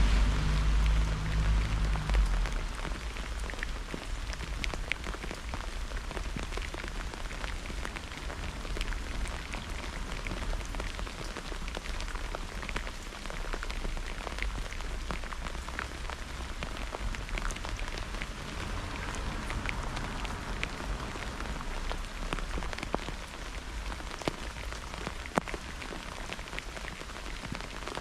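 Steady rain falling, with many individual drops ticking sharply close by. A low rumble of thunder dies away over the first couple of seconds.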